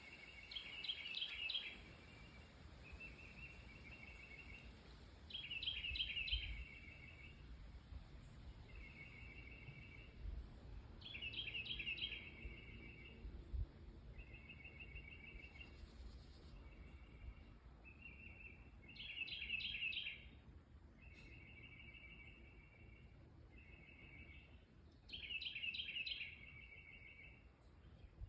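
Songbirds singing: a short, bright, rapidly trilled phrase repeats about every six seconds, with softer steady trills between the phrases.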